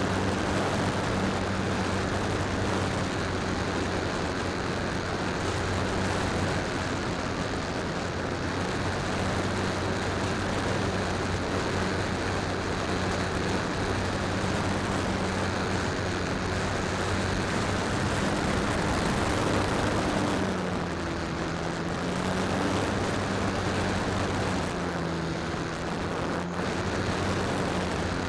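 Electric motor and propeller of a Harbor Freight P-51 Mustang RC model airplane in flight, heard from a camera strapped to its belly: a steady drone over heavy rushing wind noise. Its pitch shifts up and down a few times in the last third as the throttle changes.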